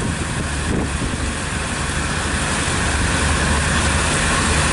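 Pontoon boat's outboard motor running steadily with the boat under way, a low, even drone under a steady rush of wind and water noise.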